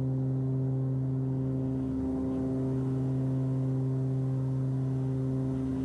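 Steady drone of a Cessna 340's twin piston engines and propellers at climb power, heard inside the cabin: an even hum with several steady pitched tones over it.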